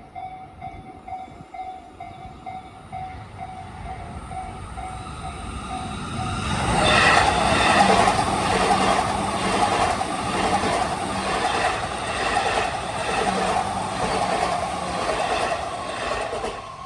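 Japanese level-crossing warning bell ringing in quick repeated dings, about two a second. About six and a half seconds in, an E233-series electric train passes, loud and rumbling, with a regular clatter of wheels over the rail joints. The sound cuts off suddenly near the end.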